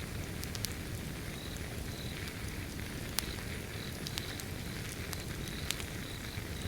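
Wood fire burning, with irregular sharp crackles and pops over a steady low rumble. A cricket chirps faintly and steadily in the background.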